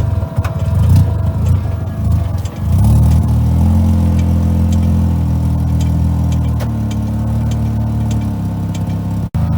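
Two-rotor Renesis rotary engine running in a race-prepped 1980 Mazda RX7, turning the jacked-up rear wheels. It runs choppy and uneven at first, then settles at a steady, higher speed about three seconds in. The sound drops out for an instant near the end.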